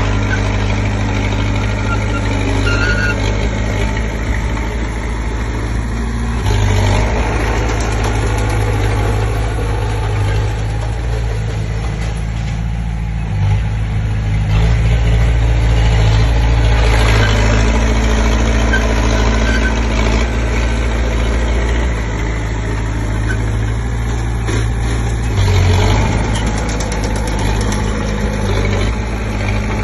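Komatsu D20P bulldozer's diesel engine running steadily, swelling louder briefly about six seconds in, for a few seconds midway, and again near the end.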